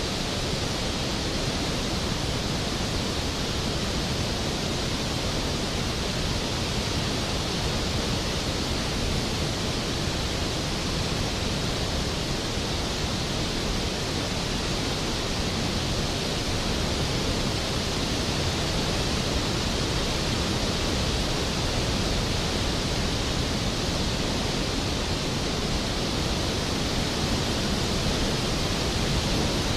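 Skógafoss waterfall, a large glacier-fed fall, pouring in a steady, even rush of water with no change throughout.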